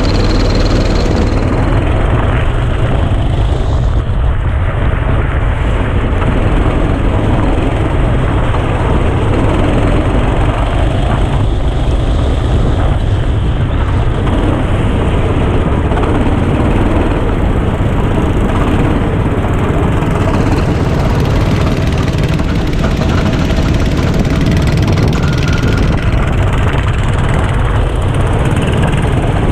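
Go-kart engine running continuously at speed, loud and steady, recorded by a GoPro camera mounted on the kart.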